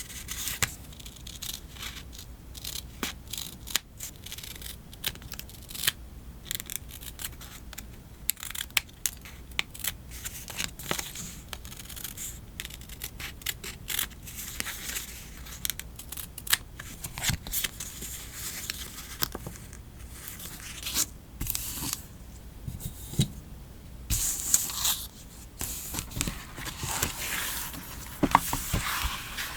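Scissors snipping through paper again and again, with paper or stickers being peeled and torn and handled.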